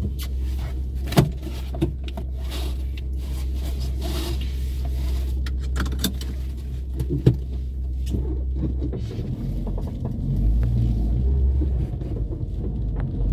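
A car driving, with a steady low engine and road rumble and a few sharp knocks about a second in, near two seconds and around seven seconds. The rumble changes and grows louder about ten seconds in.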